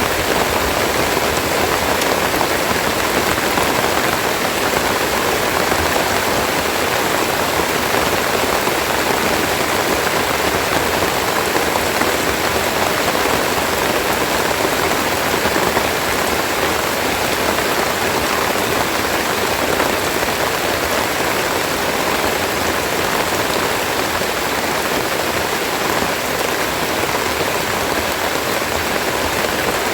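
Steady rain falling: a dense, even hiss that holds at the same level throughout.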